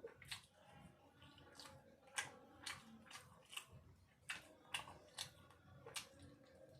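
Close-up eating sounds of someone chewing chicken biryani: a dozen or so sharp, irregular wet mouth clicks and smacks over a quiet background.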